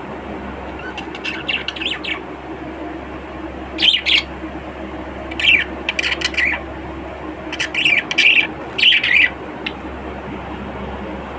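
Budgerigars chirping in several short bursts of quick, high chirps, over a steady background hum.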